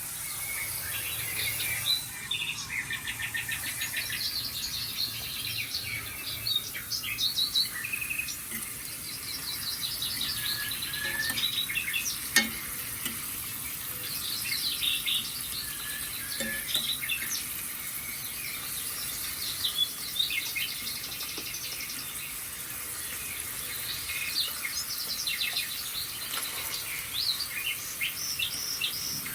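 Recorded birdsong played from a television: many birds chirping and trilling over a steady faint hiss, with one sharp click about twelve seconds in.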